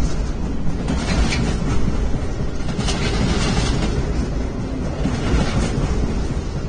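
Freight train of intermodal wagons rolling past: a steady rumble with occasional wheel clicks.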